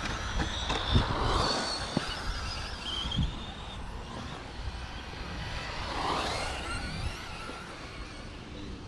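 Radio-controlled stadium trucks racing, their motors whining up and down in pitch as they pass, with a few sharp knocks.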